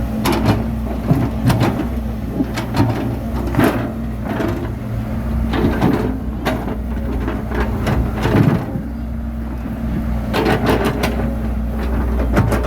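Bulldozer's diesel engine running steadily under work, with frequent sharp metallic clanks and knocks from the machine as it pushes soil.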